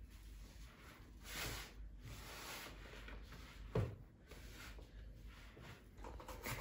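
Quiet room with faint soft rustling and one short soft knock about four seconds in.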